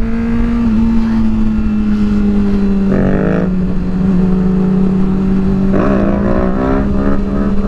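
Motorcycle engine running at a steady cruise, with wind rushing over a helmet-mounted microphone. Twice, about three and six seconds in, a short pitch sweep rises and falls over the steady engine tone.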